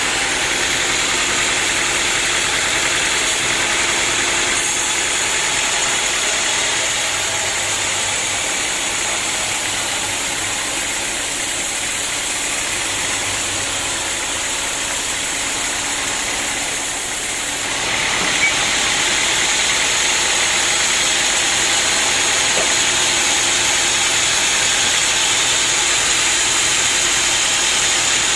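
Sawmill machinery running steadily, a continuous engine-like drone with a steady high whine. About two-thirds of the way through it grows slightly louder and brighter.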